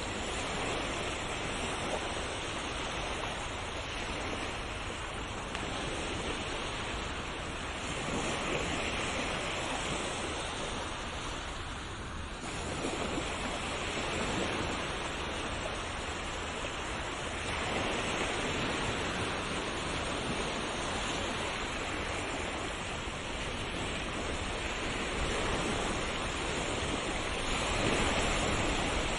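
Ocean waves breaking and washing on a shore in slow, even swells, each rising and falling over a few seconds.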